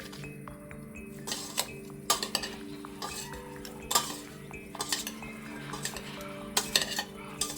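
Metal utensils clinking and scraping against dishes in a run of irregular clatters, as in stirring or serving in a bowl, over soft background music with sustained notes.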